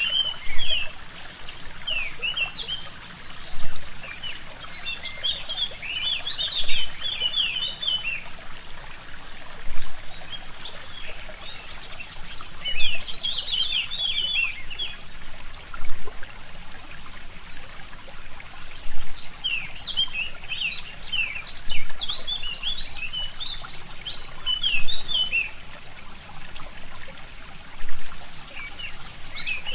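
A forest stream trickling steadily, with a louder swell about every three seconds. Songbirds chirp over it in bouts of rapid, high chirps.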